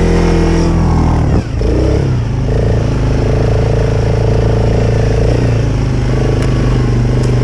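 ATV engine running hard under throttle. It drops off briefly about a second and a half in, then revs back up and holds a steady drone.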